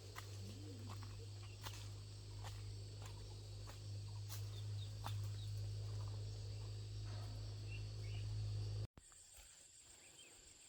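Insects (crickets) trilling in a steady high drone over a loud, steady low hum, with scattered light clicks; the hum cuts off abruptly near the end.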